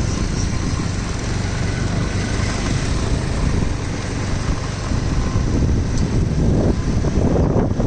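Steady street traffic noise with small engines running.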